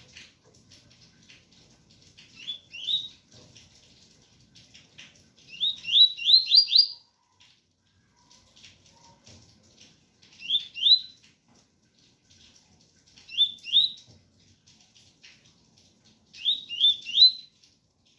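Double-collared seedeater (coleiro) singing its 'tui-tui' song: five short phrases of quick rising whistled notes, two to five notes each, every few seconds, over the steady patter of rain.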